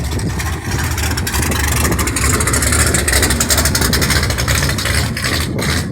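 A motor vehicle's engine running with a buzzing rumble, growing louder to a peak about three seconds in and then easing off.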